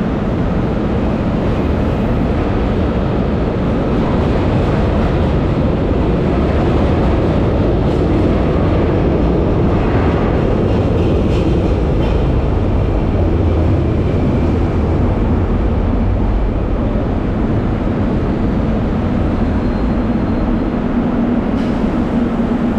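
Metro train pulling into the station platform: a loud, steady rumble of the train, with a low hum coming up near the end as it slows.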